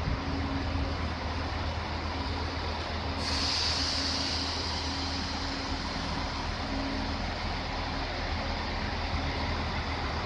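Koleje Dolnośląskie multiple-unit passenger train running slowly past the platform as it pulls into the station, a steady low hum under rail noise. A high hiss comes in suddenly about three seconds in and carries on.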